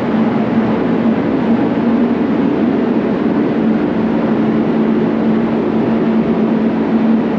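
Paint spray booth running: a steady, loud rush of air from its fans with a constant hum.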